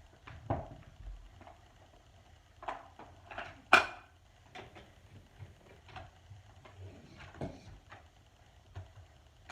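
Handling noises: scattered clicks and knocks, the loudest a sharp click a little under four seconds in, with no motor running.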